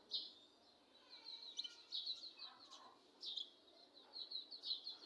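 A small bird chirping in quick runs of high, rapidly repeated notes, several bouts in a row.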